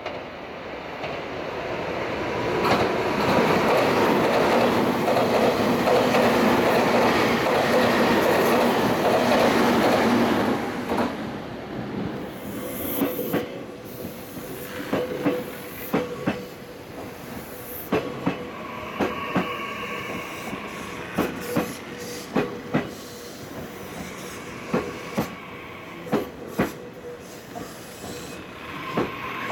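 A Meitetsu 2200-series train runs through the station at speed, a loud rush of wheels and running gear that builds and then falls away after about ten seconds. A second train then rolls slowly along the platform, its wheels clicking irregularly over rail joints, with a steady hum and brief high wheel squeals.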